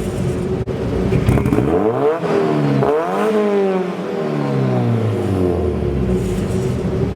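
The turbocharged 1.6-litre four-cylinder of a 1991 Mazda Miata accelerating, its revs climbing and dropping several times.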